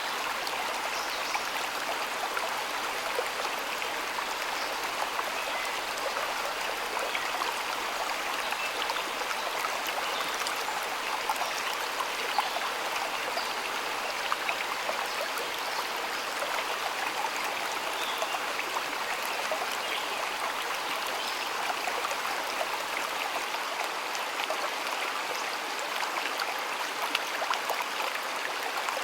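Shallow stream water flowing and babbling steadily, with a fine crackle of small trickles and splashes.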